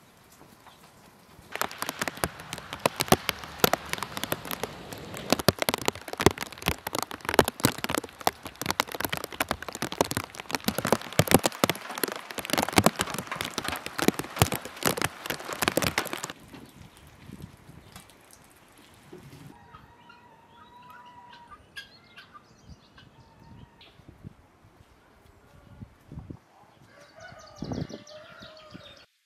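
Heavy rain drumming on a wet metal roof edge and plastic sheet: a dense, loud patter of drops that stops about halfway through. After it, chickens call now and then, the loudest call near the end.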